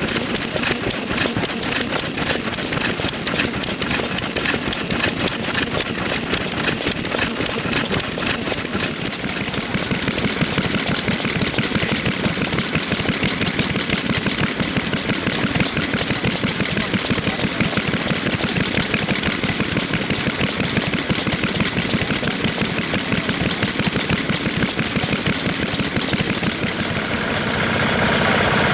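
Old stationary farm engines (hatsudoki) running, with a rapid, steady putting beat that gets a little louder near the end.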